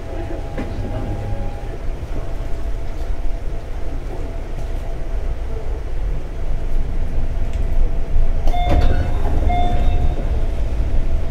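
A JR 211 series 5000 subseries electric train running, heard on board: a steady rumble of wheels on rail with a faint steady whine. About eight and a half seconds in, a short high squeal sounds twice.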